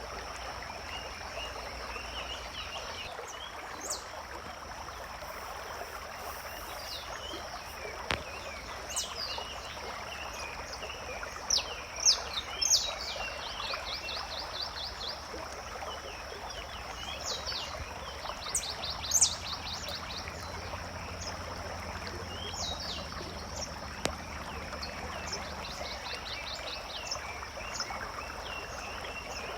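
Forest ambience: birds calling with short sharp chirps and three rapid trills, the loudest calls about twelve and nineteen seconds in. Under them run a steady high-pitched tone and an even hiss like running water.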